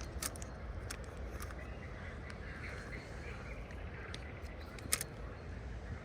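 Birds calling faintly over a steady low rumble, with a few sharp clicks, the loudest about five seconds in.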